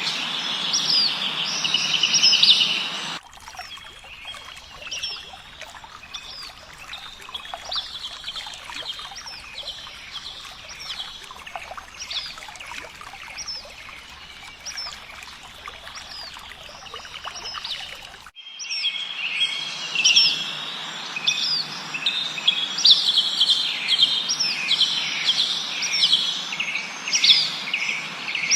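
Several songbirds chirping, a dense chorus of short, repeated falling whistles. About three seconds in the recording cuts abruptly to a quieter, sparser stretch, then cuts back to a louder, busier chorus about two-thirds of the way through.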